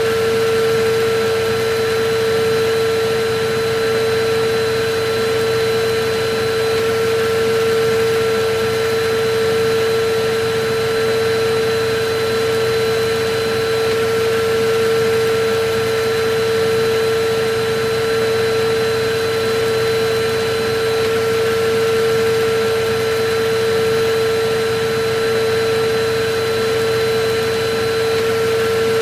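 Electric vacuum cleaner running continuously: a rush of air under a constant, unchanging motor hum with a fainter high whine.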